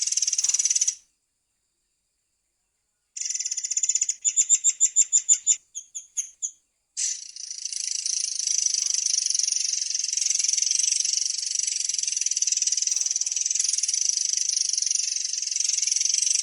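Long-tailed sibia (murai air) singing: a high buzzy trill breaks off and, after a short silence, returns as a brief trill and a quick run of about ten sharp repeated notes. A long unbroken high rolling trill then holds steady to the end.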